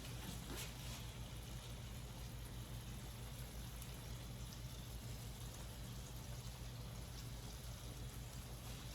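Steady, faint hiss of food cooking on the stovetop, over a low steady hum.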